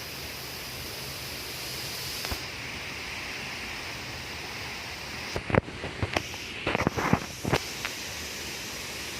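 Steady rushing of flowing river water, with a quick run of sharp knocks and clicks a little past the middle.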